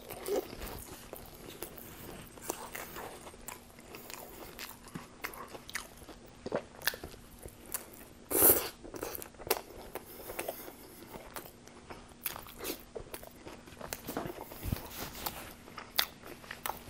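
Close-miked chewing of a Subway sandwich on flatbread topped with crunchy chips: crisp crunches and wet mouth clicks, with one louder mouth noise about eight and a half seconds in.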